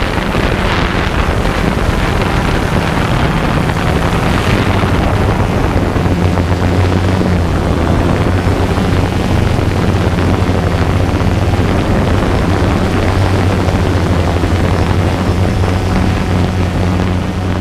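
DJI Phantom 2 quadcopter's motors and propellers humming steadily in flight, heard through the GoPro carried on the drone, with wind rushing over the microphone.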